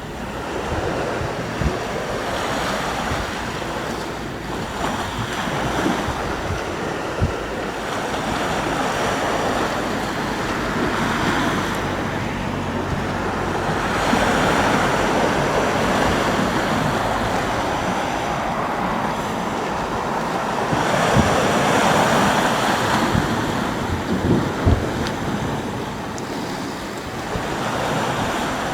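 Sea waves breaking and washing on the shore, swelling into louder surges about halfway through and again near three quarters, with wind buffeting the microphone.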